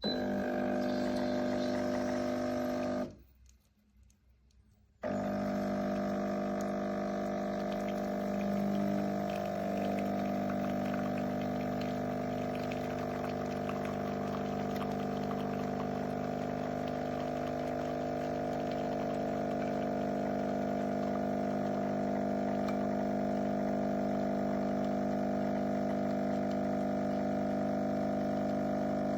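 Cecotec Power Instant-ccino espresso machine's pump running with a steady buzzing hum, cutting out about three seconds in and starting again two seconds later.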